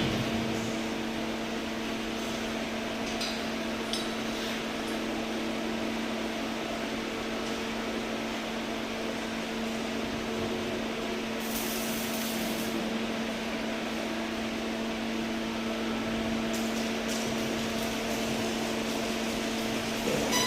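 Electric arc welding: a steady hiss from the welding arc over the welding machine's constant electrical hum, running without a break.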